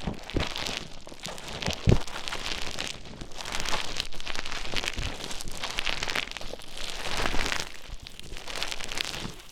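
Play Foam (bead modelling foam) being squished and stirred, a dense crackling, clicking texture with an occasional soft thump.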